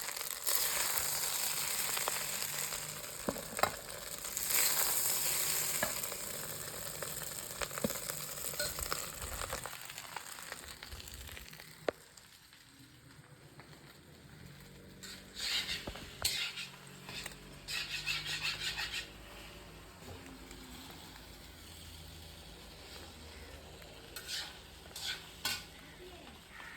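Chicken fried rice sizzling in a pan as it is stirred and tossed, with clicks of the spatula against the pan. The sizzle dies down after about ten seconds, leaving a few short bursts of stirring.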